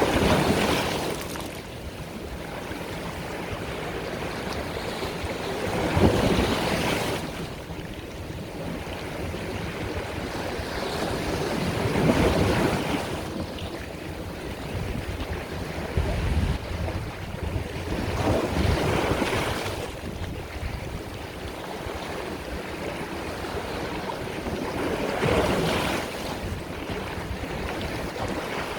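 Sea waves breaking on the shore in slow surges about every six seconds, each wash swelling and fading back to a steady hiss of surf.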